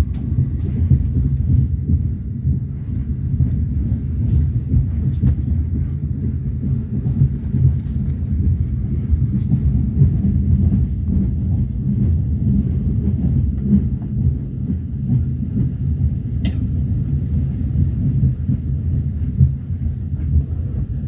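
Steady low rumble of a moving passenger train heard from inside the carriage, with a few faint sharp clicks here and there.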